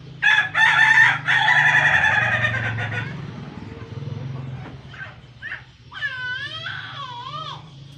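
A rooster crowing once, a loud raspy crow of about three seconds, followed a few seconds later by softer wavering calls.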